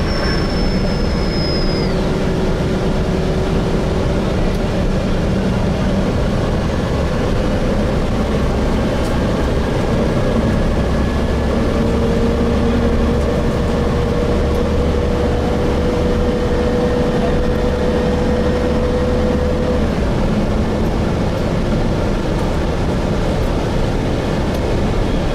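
Gillig Phantom transit bus heard from inside while under way: steady diesel engine and road noise. A brief high squeal sounds at the start, and later a steady whine rises slowly in pitch for several seconds before dropping away.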